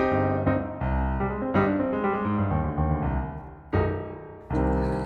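Background piano music: a run of struck notes and chords, with loud new chords about a second and a half in, near four seconds, and again near the end.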